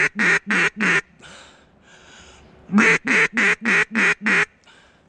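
Duck quacking in two strings of about six loud quacks, roughly three a second, with a pause of a second and a half between the strings.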